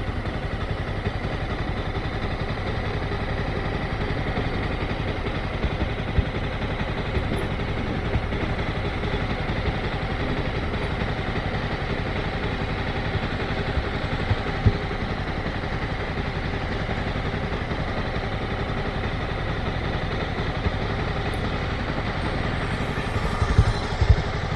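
Motorcycle engine running steadily, with a few short knocks, a cluster of them near the end.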